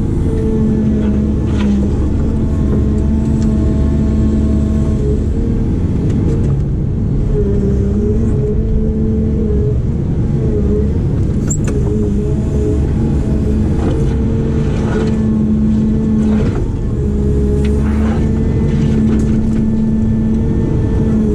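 Heavy construction machine's diesel engine running steadily at working revs, its pitch dipping slightly and recovering every few seconds, with an occasional short knock.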